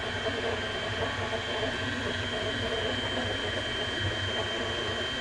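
Electric stand mixer running steadily on low speed with a dough hook, kneading pizza dough made of flour and a yeast mixture. A steady motor hum with a thin, high, steady whine on top.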